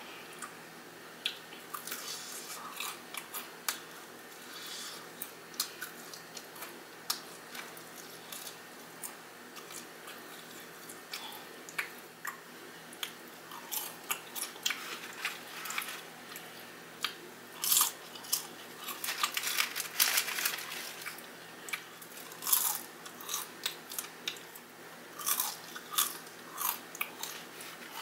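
Crunching and chewing of fried chicken with crisp breading: irregular crunches and bites, denser and louder in the second half.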